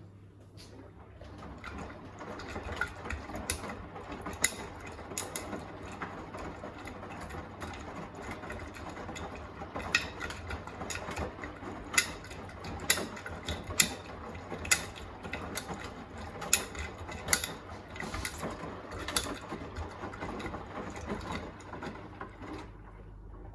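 Beko WTK104121A washing machine drum turning during the wash, with the laundry tumbling and sharp clicks and knocks against the drum. It starts about a second in and stops near the end, over a steady low hum.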